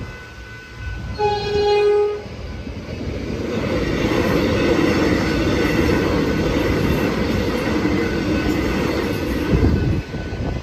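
A train sounds one short horn blast about a second in. It then runs through the level crossing with a steady rumble of wheels on rail that builds from about three seconds in.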